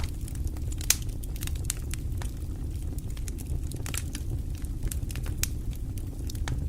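Wood fire in a fireplace crackling, with irregular sharp pops over a steady low rumble of the flames; one louder pop about a second in.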